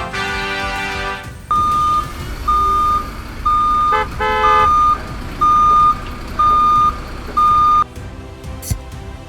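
Vehicle reversing beeper: a steady high beep, seven times at about one a second. It follows a horn-like tone in the first second and a half, and a short horn-like blast cuts in about four seconds in.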